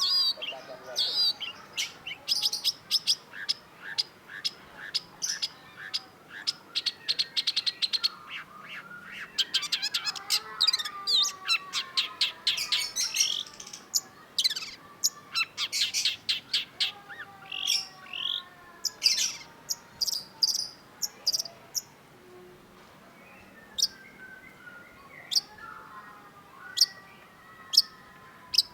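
Long-tailed shrike singing: fast runs of sharp, high chattering notes and rattles, with lower falling whistles beneath them and a quieter spell about two-thirds of the way through.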